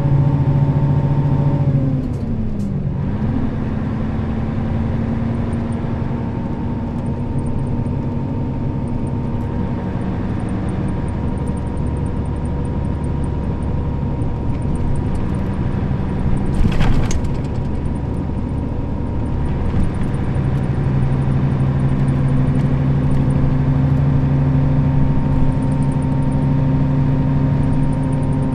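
Nissan Diesel KL-RA552RBN route bus's diesel engine running on the move, its drone dropping in pitch about two seconds in and then holding steady. A short sharp knock comes a little past halfway, and the deep engine note grows stronger again toward the end.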